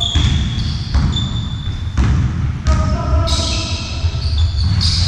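A ball bouncing on a hard indoor court about once a second, with shoes squeaking on the floor, echoing in a sports hall.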